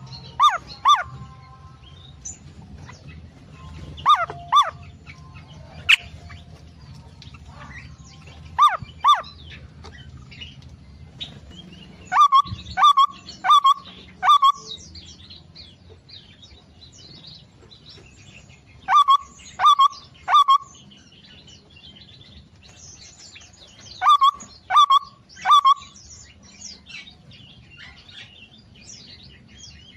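Songbirds calling: loud, sharp, quick calls in bursts of two to four, repeated every few seconds, with softer chirping in between.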